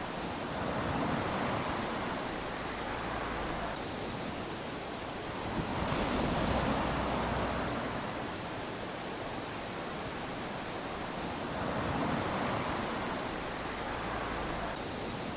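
Small ocean waves lapping onto a sandy shore, with a steady wash of surf between. Three waves swell and fade in about 15 seconds, roughly one every five to six seconds.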